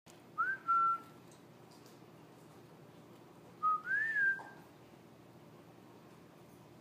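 Two short, clear whistles about three seconds apart, each a note that slides up and then holds steady.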